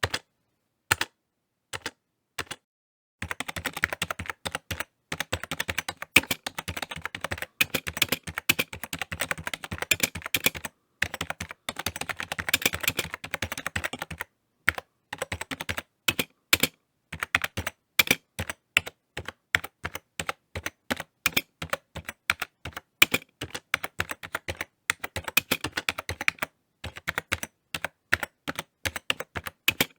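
Typing on a computer keyboard: quick runs of sharp key clicks, a dense fast flurry for about ten seconds early on, then looser bursts of keystrokes with short pauses between them.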